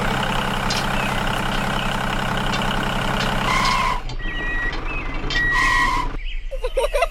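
Tractor engine running steadily, then two short high beeps a couple of seconds apart near the middle. The engine stops about halfway through, and birds start chirping near the end.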